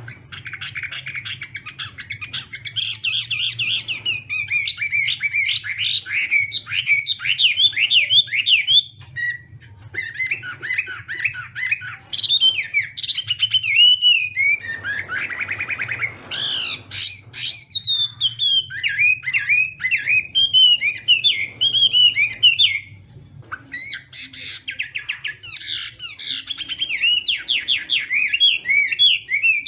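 Chinese hwamei singing its competitive song: long phrases of rapid, varied, repeated whistled notes, broken by a few short pauses, over a low steady hum.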